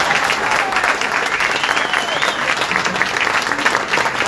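Audience applauding and cheering at the end of a jazz big band tune, with a whistle or two rising above the clapping.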